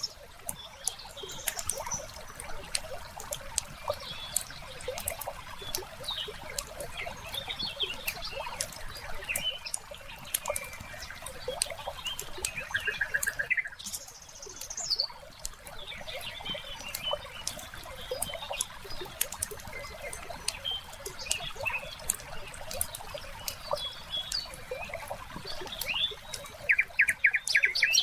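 Wood fire crackling with constant irregular pops and snaps, mixed with small birds chirping; a quick buzzy trill about halfway through and another near the end.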